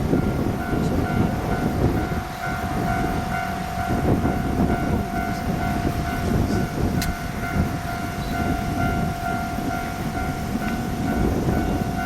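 Aru Ressha diesel sightseeing train running on the line: a continuous low rumble of the engine and wheels, with a steady whine held over it throughout.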